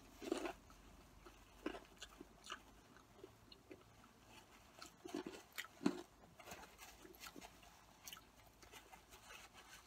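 Faint chewing of cheesy curly fries, with scattered short clicks and crinkles as the foil wrapper is handled.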